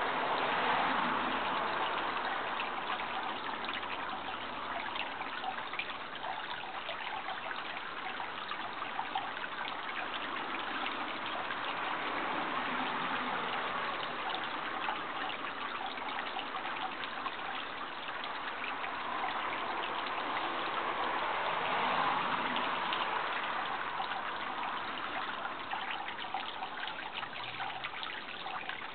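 Running water, a steady trickling rush that swells and eases slowly a few times.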